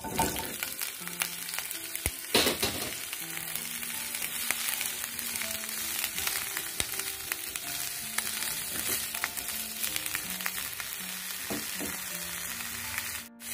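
Steamed cauliflower florets sizzling and crackling in hot sunflower oil in a nonstick kadai as they are tipped in and stirred with a silicone spatula, with a louder knock about two seconds in.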